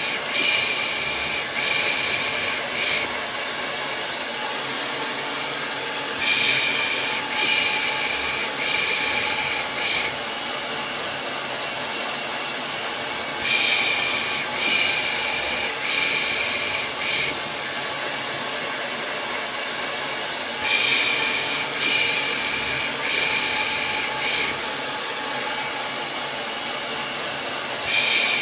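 Hair dryer running steadily as white noise, overlaid with rhythmic 'pış pış' shushing to soothe a baby: groups of four short hissy shushes about every seven seconds.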